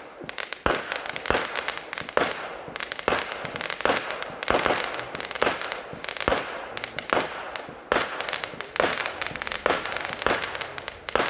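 A consumer fireworks cake firing shot after shot, about one to two a second. Each shot is a sharp bang with crackling in between, and the run ends right at the close.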